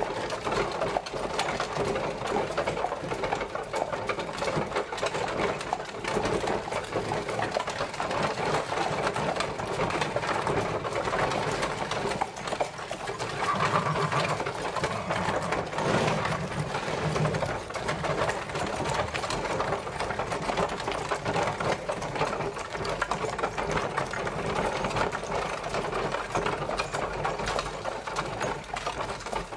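Horse-drawn carriage on the move: a dense, steady rattling clatter of the rolling wheels and carriage.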